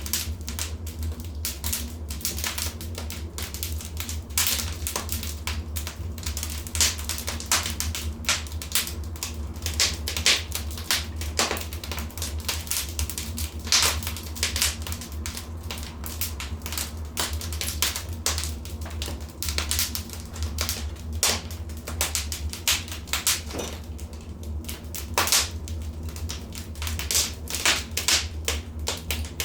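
Wood fire burning in a fireplace, crackling and popping in irregular sharp snaps over a steady low rumble.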